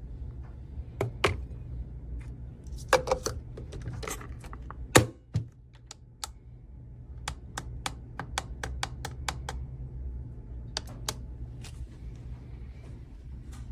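Sharp clicks and knocks from a single-serve coffee maker being handled. The clicks come scattered at first, with one loud knock about five seconds in, then as a quicker run of lighter clicks about seven seconds in, all over a steady low hum.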